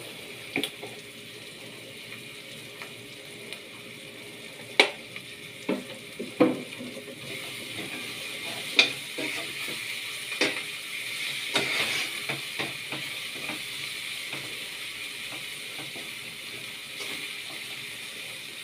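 Sliced onions, peppers and cilantro sizzling in oil in a stainless steel frying pan, with a metal spoon clinking against the pan now and then as the sofrito is stirred. The sizzle grows louder about seven seconds in.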